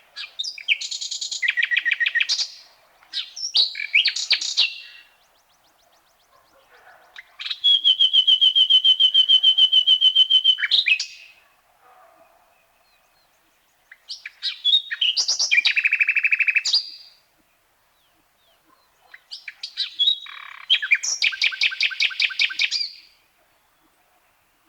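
Common nightingale singing in five phrases separated by short pauses. Each phrase is built of rapid repeated notes, and the longest is a loud, steady trill of repeated notes about four seconds long in the middle.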